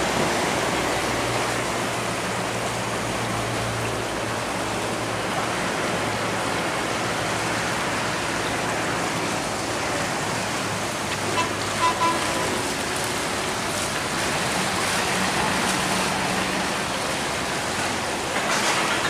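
Steady rush of water through a sluice gate under the low drone of a boat engine, with two short horn toots about twelve seconds in.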